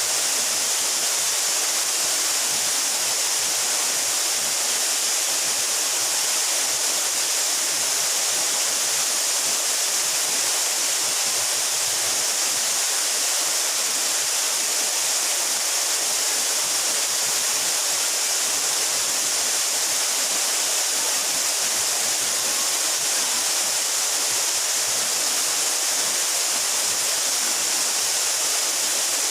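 Waterfall about 12 metres high, water falling onto rocks and a pool in a steady, unbroken rush that is strongest in the hiss of the upper range.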